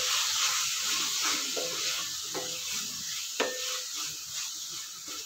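Onion masala sizzling as it fries in a metal kadai, stirred with a wooden spatula that scrapes and knocks against the pan several times.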